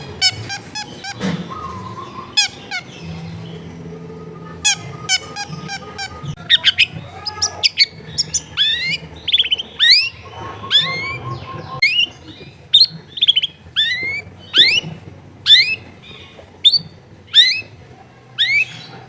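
Long-tailed shrike (cendet) singing in full voice: a rapid run of sharp, whistled notes, many sweeping quickly upward, repeated about once or twice a second and growing denser after the first few seconds.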